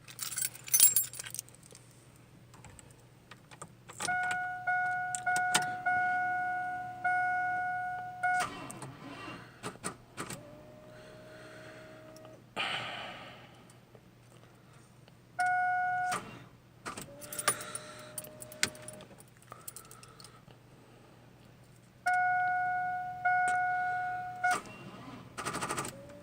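Truck keys jangling in the ignition while the truck's warning chime dings in runs of steady tones about once a second; no engine catches, as the weakly charged battery fails to start the truck in the deep cold.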